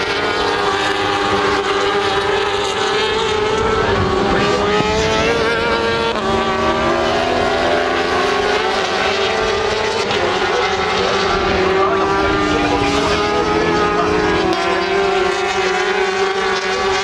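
Several racing motorcycle engines running at high revs together, their pitches rising and falling as the bikes change gear and go by.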